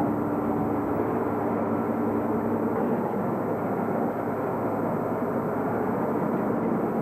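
A steady engine-like mechanical drone with a low, even hum, running unchanged throughout.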